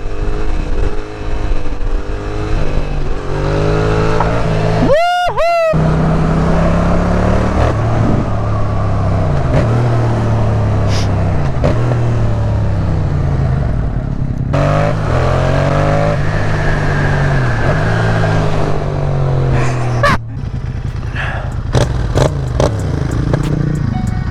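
Yamaha MT-07 parallel-twin running through an aftermarket exhaust under way, its engine note climbing with the revs and dropping back at each gear change, again and again. A short high-pitched warbling tone cuts in about five seconds in.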